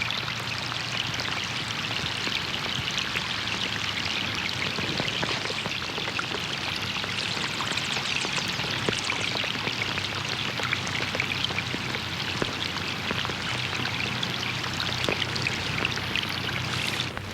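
Rain falling on a pond: a dense, steady patter of many small drops hitting the water over a wash of flowing water.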